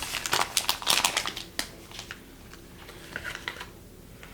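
Rapid light clicks and taps of small hard objects being handled on a work surface, thick for about the first second and a half and then thinning to a few scattered clicks.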